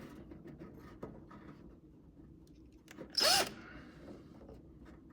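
Power drill run in one short burst of about half a second, about three seconds in, its pitch rising and then falling, among light handling clicks.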